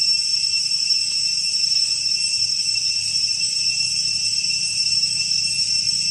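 Steady, high-pitched insect chorus, a constant shrill drone of several even tones with no breaks.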